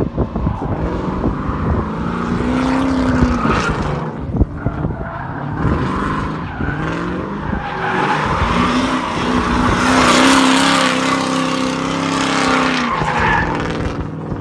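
LS1 V8 drift car revving hard in two long surges, dropping back about four seconds in and again near the end, with tyres squealing as the car slides. The exhaust runs through a Y-pipe into a 3-inch pipe.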